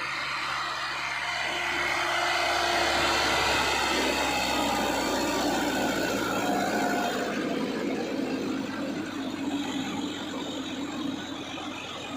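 Heavy diesel engine running, from a tractor or backhoe loader, growing louder over the first few seconds and then holding steady.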